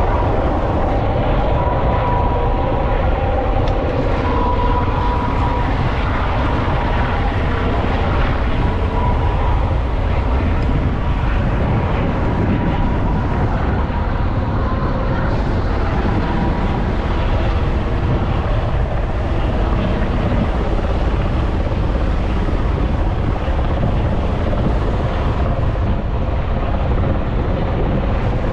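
Steady drone of aircraft at the airshow under a heavy low rumble of wind on the microphone.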